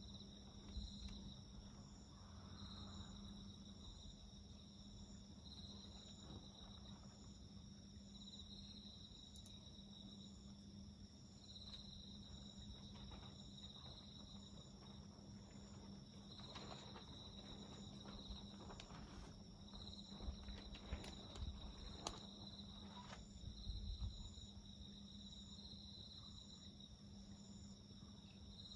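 Faint, steady chirping of crickets and other insects in several evenly pulsing trills. A garden bonfire gives scattered sharp crackles and snaps, coming thickest about two-thirds of the way through.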